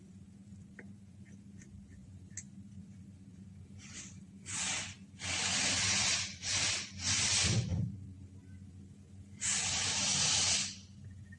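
Hissing spray in five short bursts, the last and longest near the end.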